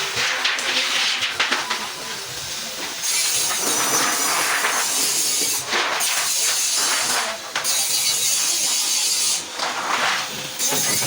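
Hissing in bursts of one to three seconds, each starting and stopping abruptly with short gaps, after a few seconds of mixed clattering.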